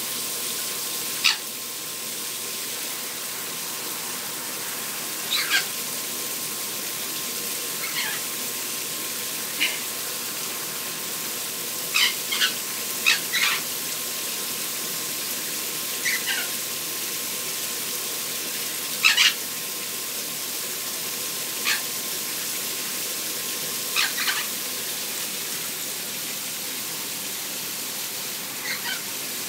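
Shower water spraying in a steady hiss while pet parrots give short, sharp squawks every few seconds, about a dozen in all, some in quick pairs and some dropping in pitch.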